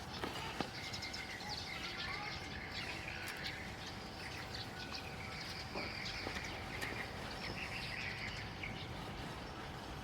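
Small birds chirping and twittering, many short high calls over a steady outdoor background with a faint constant hum.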